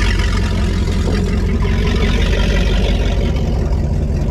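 The 2002 Donzi Classic 22's engine running steadily at idle, a loud, even, low-pitched engine note.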